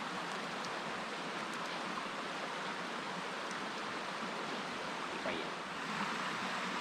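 Steady rushing background noise of the kind flowing water or wind makes, with a few faint scattered clicks.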